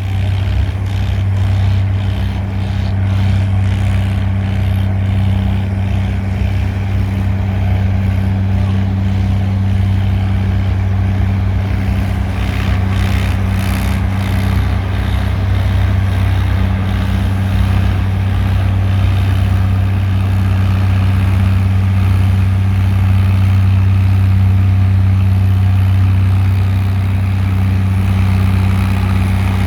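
Pulling tractor's engine running hard at a steady speed under load, dragging the weight sled down the track, growing slightly louder in the second half.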